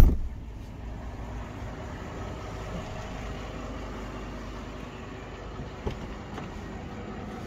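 A car door thuds shut, then the VW Phaeton's 5.0-litre V10 TDI diesel idles steadily, with one light click about six seconds in.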